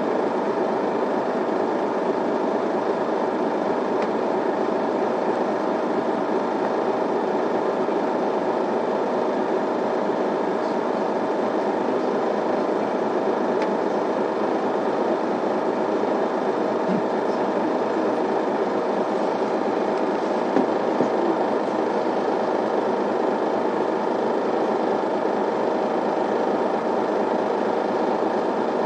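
Cabin sound of an Isuzu Elga city bus with its diesel engine idling steadily at a stop, an even hum that neither revs nor changes.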